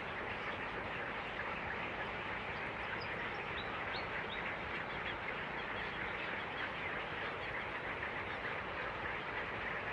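Many birds in a flooded-forest colony calling at once: a dense, steady chatter of overlapping calls, with a few short high chirps standing out about three to four seconds in.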